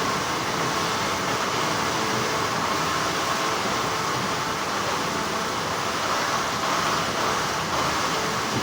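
Steady hum and whirr of textile factory machinery filling the workroom, with no distinct strokes or breaks.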